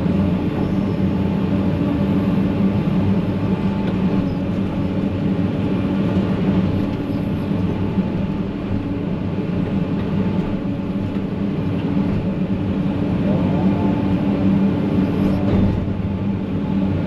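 Excavator's diesel engine running steadily with a low, even hum, heard from inside the cab.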